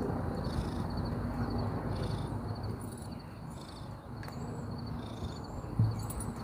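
Insects chirping steadily over a low outdoor rumble, with one soft thump near the end.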